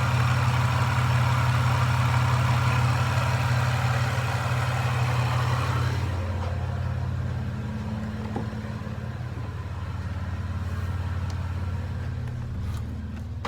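Supercharged Toyota 3.4 L V6 idling steadily while warming up after a cold start. A hiss over the top of the engine sound fades about six seconds in, leaving a quieter, lower idle, and a sharp click comes at the very end.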